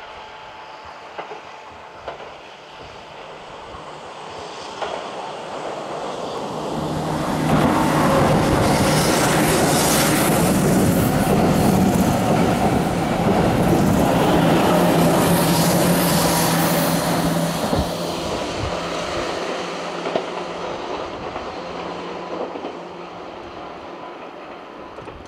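A Keihan electric commuter train running past close along the platform: wheels clattering on the rails and a steady motor hum, building up over several seconds, loud for about ten seconds, then fading as it goes away.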